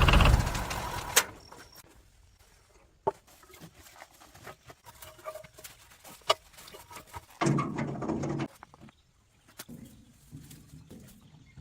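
An engine running stops just after the start and dies away over about a second. Then it is quiet apart from scattered sharp clicks and knocks, and an animal call of about a second near the middle.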